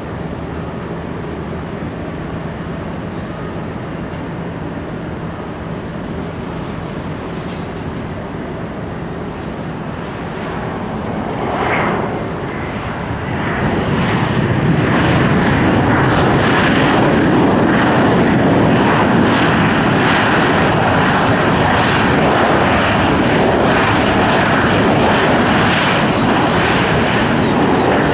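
Jet airliner landing, a Southwest Boeing 737. Its engine noise is steady at first, swells about twelve seconds in, and stays loud to the end.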